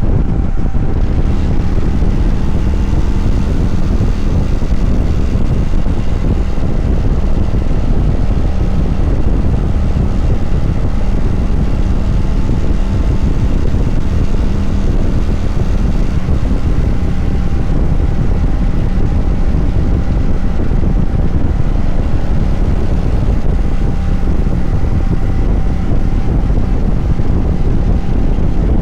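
Kawasaki Vulcan 900 V-twin motorcycle engine running steadily at cruising speed, mixed with wind rushing over the microphone. The sound is loud and even, without shifts or revving.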